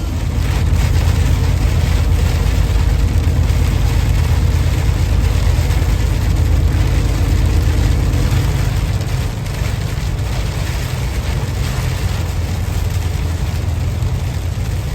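Steady low rumble of the 2024 Kenworth T680's diesel engine and road noise heard from inside the cab while driving, easing off slightly about nine seconds in.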